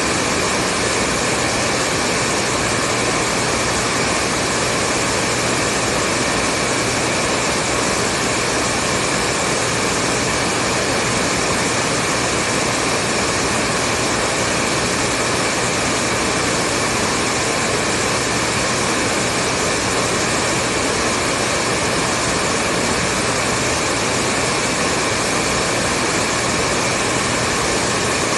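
Hair dryer running steadily: a continuous rushing whoosh of blown air with a faint hum from the motor, unchanging throughout.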